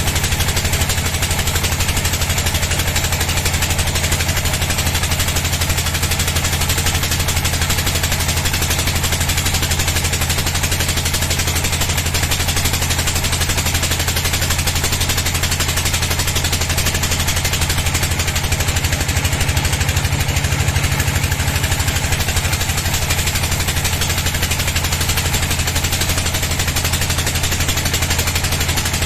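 Sawmill bandsaw machinery running steadily, with a fast rapid-fire chatter over a low hum.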